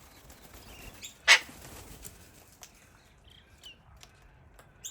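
Cockatoos (long-billed corellas and sulphur-crested cockatoos): one loud harsh screech about a second in, with faint chirps and scattered light clicks around it.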